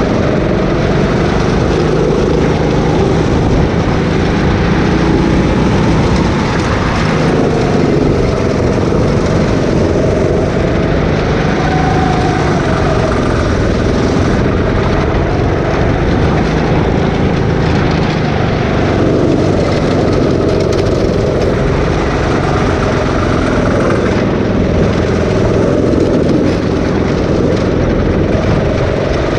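Rental go-kart engine running loud and continuously at race pace, its pitch rising and falling gently as the throttle is worked.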